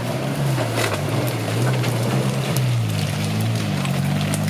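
Engine of a modified off-road 4x4 running at low revs as it creeps down a steep rocky slope. Its pitch dips and rises with the throttle, and a few faint clicks come through.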